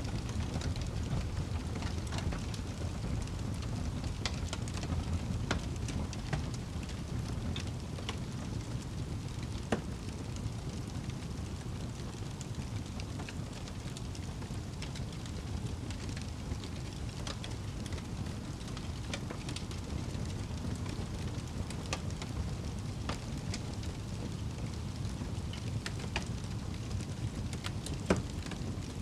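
Fireplace wood fire crackling: a steady low rumble of flames with scattered sharp pops and snaps, two of them louder, about ten seconds in and near the end.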